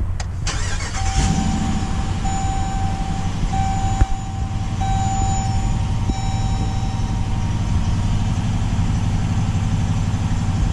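2021 Dodge Durango R/T's 5.7-litre Hemi V8 started by push button: it cranks, catches about a second in and settles into a steady idle. A car chime beeps in a repeating run of tones for the first several seconds after the start.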